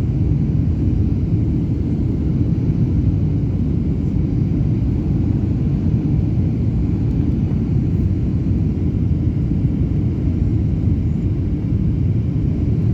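Aeroplane in flight: a steady low rumble of engines and airflow, unchanging throughout.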